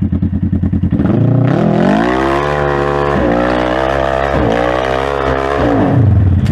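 Polaris RZR RS1 side-by-side's twin-cylinder engine, loud, low and pulsing at first, then revved hard about a second and a half in. The revs rise and fall several times as it claws up a steep hill climb.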